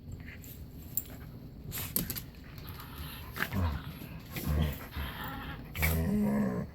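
Dog making low, grumbling growl-like vocalizations in several short bouts, the longest near the end, with a few soft knocks and rustles of movement on the bedding before them.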